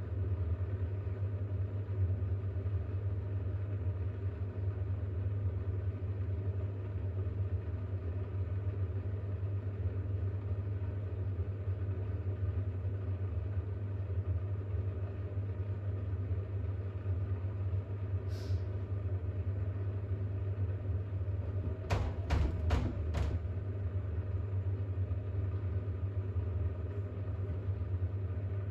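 Bosch WAX32GH1 washing machine running with a steady low hum in its drain-and-distribute stage before a spin that it finds too unbalanced. Four quick knocks come in close succession about two-thirds of the way through.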